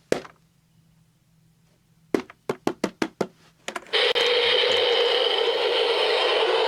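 A click, then a quick run of clicks about two seconds in. About four seconds in, the Tekky Toys Floating Reaper animatronic starts up, and its battery-powered motor and gear mechanism runs with a loud, steady whir.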